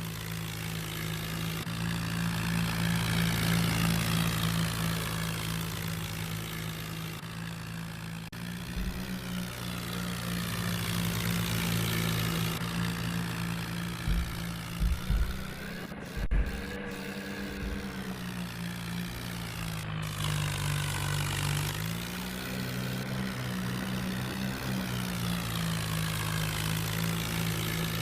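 Tractor engine running steadily, its pitch shifting a few times as the revs change, with a few short knocks near the middle.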